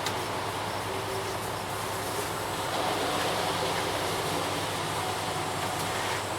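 Ready-mix concrete truck's diesel engine running steadily, a continuous mechanical rumble with a steady low hum.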